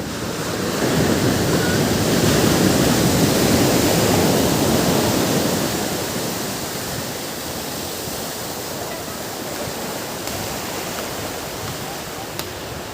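Ocean surf on a beach: a wave builds about a second in, breaks and washes out over the next few seconds, then a steady, softer wash of surf.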